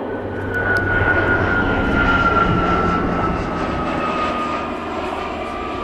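Light aircraft flying past, its engine roar loudest about a second or two in, with a high whine that slides slowly down in pitch as it goes by.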